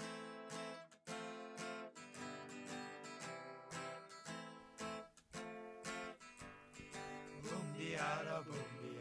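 Music: the instrumental intro of a song, with chords strummed on an acoustic guitar at a steady pace.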